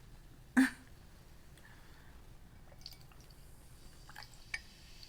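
A person eating close to the microphone: one sharp bite about half a second in, then a few faint wet mouth clicks of chewing.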